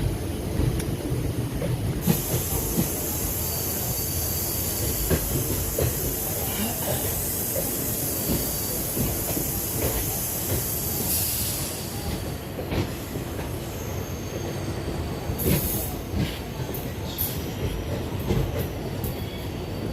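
Passenger train running on the rails: a steady low rumble with scattered clicks from the wheels. A high squealing hiss comes in about two seconds in and fades around halfway, followed by a few short bright squeals near the end.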